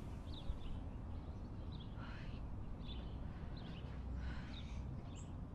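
Faint, sparse bird chirps, short and high, about one every second, over a steady low hum.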